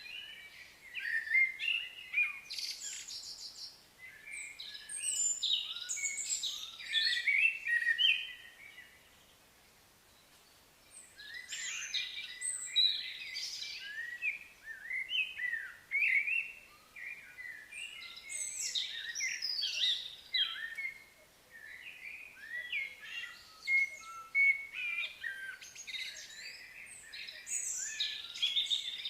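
Several small birds chirping and singing in quick, overlapping phrases, with a brief lull about ten seconds in.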